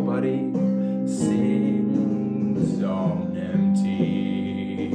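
Instrumental music accompaniment with guitar chords, the harmony changing every second or so.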